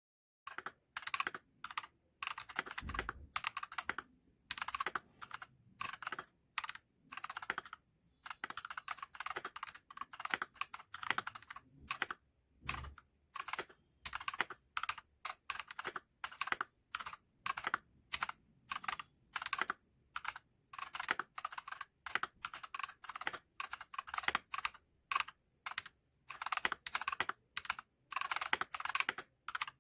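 Typing on a Redragon K596 Vishnu mechanical keyboard fitted with Akko CS Lavender Purple tactile switches and HyperX PBT pudding keycaps: quick runs of keystrokes in bursts with short pauses between them, starting about half a second in.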